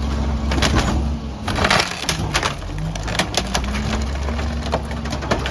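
Garbage truck's packer crushing bulk trash, with repeated sharp cracks and splintering of wood over the truck's steady engine and hydraulics.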